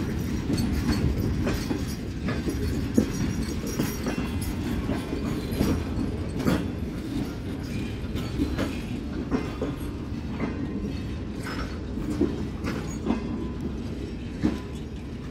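Pakistan Railways passenger coaches rolling slowly past: a steady low rumble of wheels on rail, with irregular clicks and knocks as the wheels pass over rail joints.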